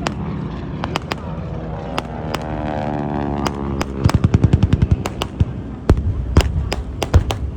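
Repeated sharp bangs and pops of air-show pyrotechnics, with a quick burst of about ten pops a second a little past halfway. Under them runs a low rumble, with a tone sliding down in pitch between about two and four seconds in.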